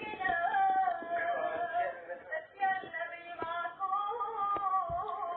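A girl's voice singing long, held notes that slide up and down, with a few light clicks.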